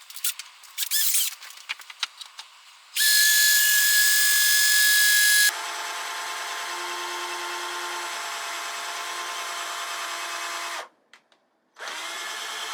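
A few handling knocks and clicks, then an electric power tool starts with a loud, high-pitched whine. After about two and a half seconds it drops to a lower, quieter steady run for about five seconds. It stops for about a second and starts again near the end.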